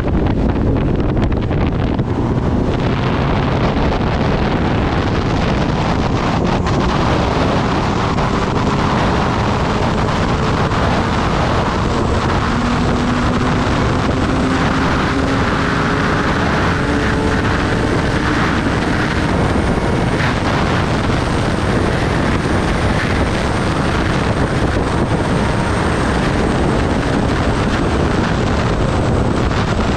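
Heavy wind rushing over the microphone on a moving Kawasaki ZX-10R sport bike, with the inline-four engine's note faint underneath. The engine note climbs slowly in pitch through the middle stretch as the bike gathers speed.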